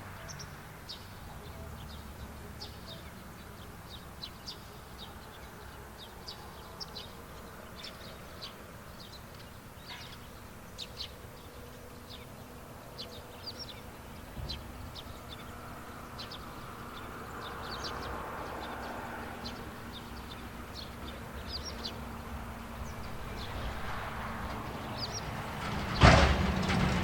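Countryside field ambience: small birds chirping on and off over a faint steady hum. About a second before the end, a sudden loud rushing noise sets in.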